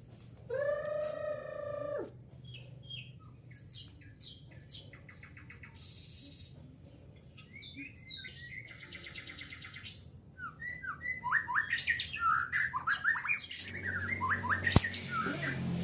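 White-rumped shama (murai batu) calling and singing: a long harsh call about half a second in, then scattered chirps and two buzzy rattling trills, building near the end into a louder, fast run of rising whistled notes. A sharp click sounds near the end.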